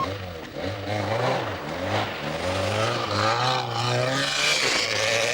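Rally car engine revving hard as the car accelerates away, its pitch climbing and dropping back several times as it shifts up through the gears.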